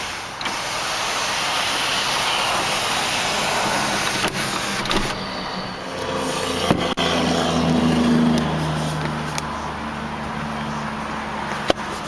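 A steady hiss for the first few seconds. Then, about six seconds in, the 2001 Cadillac STS's 32-valve Northstar V8 starts, rises in pitch briefly and settles into a steady idle.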